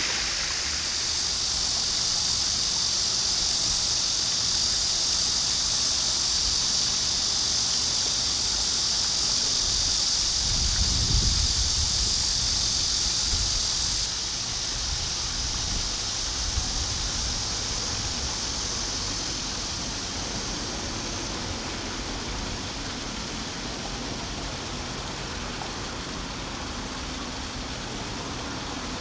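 Steady outdoor ambience: a high, even hiss that drops away suddenly about halfway through, with a brief low rumble shortly before.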